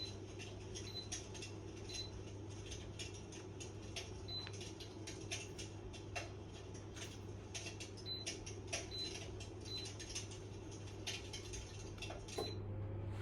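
Lucia III fireplace-style electric fan heater running: a steady fan hum with irregular crackling clicks and brief high chirps over it.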